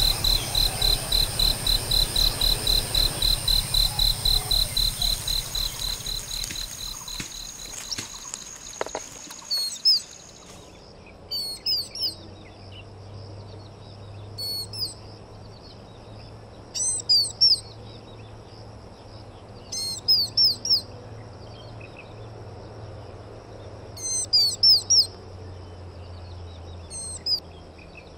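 A high, even pulsing trill, about six pulses a second, fades out over the first ten seconds. After that a bird gives short bursts of quick, sharp, high chirps every few seconds.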